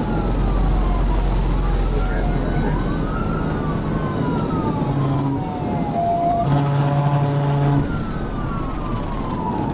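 Police car siren wailing in slow rising and falling sweeps, about three cycles, over the steady road and engine noise of a moving vehicle.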